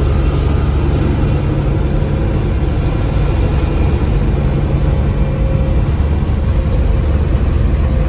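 Peterbilt semi truck driving: steady diesel engine hum with road noise, unchanging throughout.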